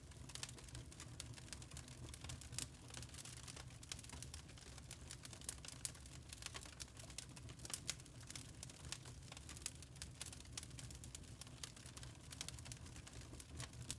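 Burning charcoal crackling: a constant scatter of small, irregular ticks and pops over a steady low rumble.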